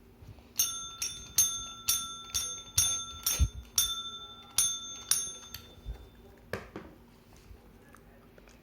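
A small metal object rings under about eleven quick strikes, roughly two a second, each giving a bright clear ring that dies away. A couple of duller knocks follow about a second after the ringing stops.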